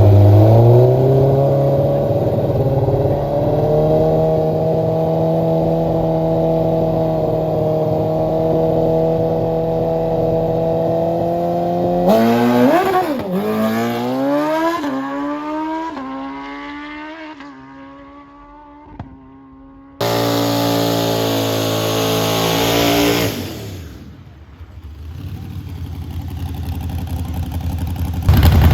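A car engine revving up and held at high revs for several seconds, then its revs wavering and falling away. After a sudden cut there is another short stretch of steady high revs, then the sound swells again near the end.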